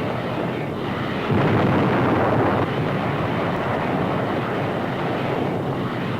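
Naval guns of a fleet bombardment firing, with shell blasts merging into a continuous heavy rumble; a louder blast lasting about a second begins a little over a second in.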